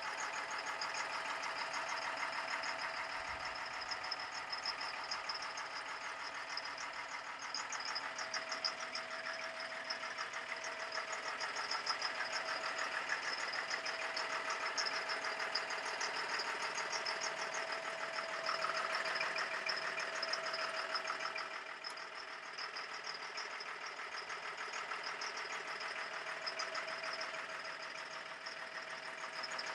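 Caterpillar 3116 turbo diesel engine of an M1078 LMTV truck running steadily, with an even, rapid clatter; it gets a little quieter about three-quarters of the way through.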